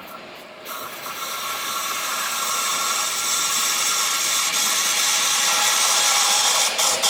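A train passing on the track, its wheel-on-rail running noise swelling from about a second in to a loud, steady hiss.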